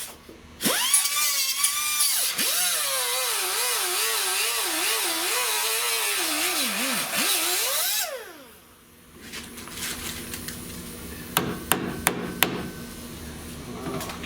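Power cutoff tool cutting auto-body sheet steel, its whine wavering up and down as the wheel bogs under load, then spinning down about eight seconds in. A few sharp knocks follow near the end.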